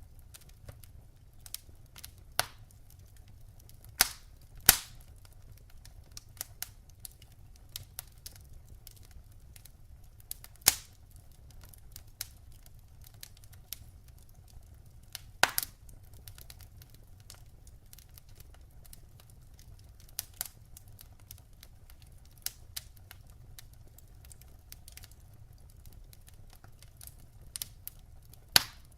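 Wood fire crackling: irregular sharp pops and snaps from the burning logs, a few much louder than the rest, over a faint low rumble of flame.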